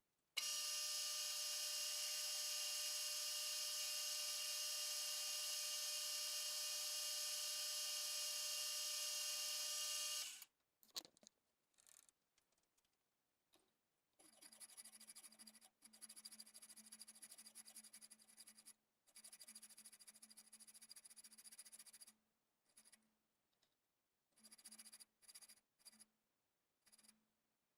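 Electric power tool motor running at a steady high whine for about ten seconds, then stopping. After that it runs more quietly in short stop-start stretches, with abrupt breaks.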